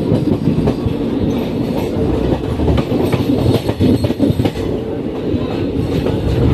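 Passenger train running along the track: a steady rumble with the clickety-clack of the wheels knocking over rail joints.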